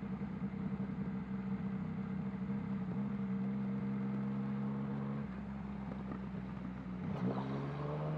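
Yamaha MT-09 three-cylinder motorcycle engine running at a steady cruise, heard from the rider's helmet with wind noise underneath. About seven seconds in the engine note dips briefly, then rises again.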